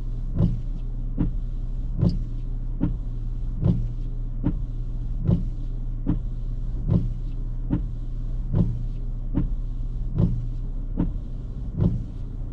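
Inside a car: a steady low vehicle hum with a regular tick about every 0.8 seconds.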